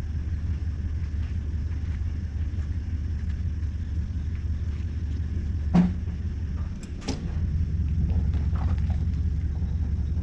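Tow vehicle's engine running with a steady low rumble as the boat trailer is backed further down the ramp. A single sharp knock comes about six seconds in, followed by a lighter click.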